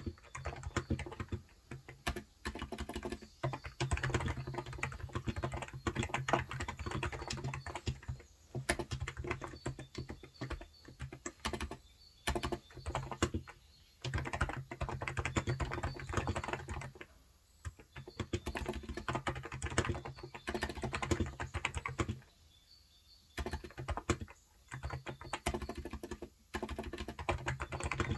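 Typing on a Cox Endeavor electrostatic capacitive (Topre-style) keyboard with light 35 g switches: fast runs of soft key strokes in bursts, broken by brief pauses.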